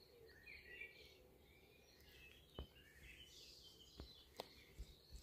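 Near silence with faint birdsong, broken by a few soft knocks.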